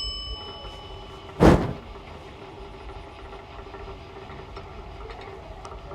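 Electric winch of a lake ride running with a steady hum while it pulls the seat along its cable. A short high ringing tone fades at the start, and a single loud thump or rush of noise comes about a second and a half in.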